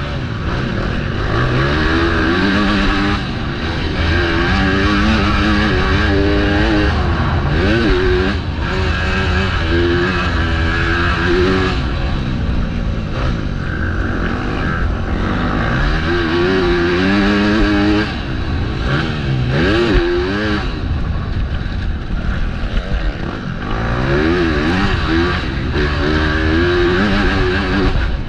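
MX2 motocross bike engine racing around the track, its pitch climbing and dropping again and again as the throttle is opened and closed through the sections.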